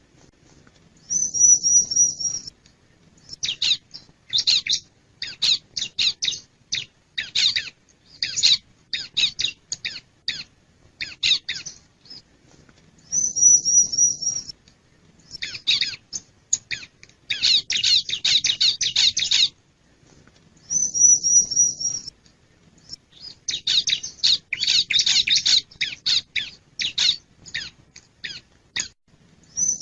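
Bar-winged prinia (ciblek) singing: rapid runs of sharp, high chirping notes in clusters of a few seconds each. These are broken four times by a higher trilled phrase about a second and a half long.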